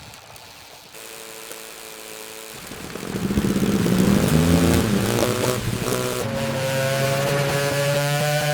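A motorcycle engine running low and even, then revving up hard about three seconds in, with the pitch swinging up and down, before holding high revs with a slowly rising pitch.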